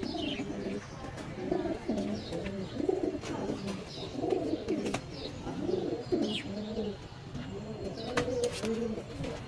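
Domestic pigeons cooing over and over, with a few short, high, falling chirps and scattered clicks above them.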